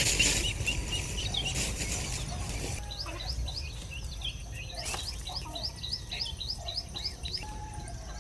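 A small bird repeating a short high chirp about five times a second. One run fades out about two seconds in, and a slightly higher run starts near three seconds in and runs to about seven and a half seconds. A low rumble sits underneath, and there is a single sharp click about five seconds in.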